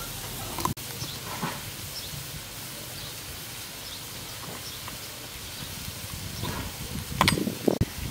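Chicken gizzards and organs cooking in a wok, a steady low sizzle and hiss. A few brief, louder sounds come near the end.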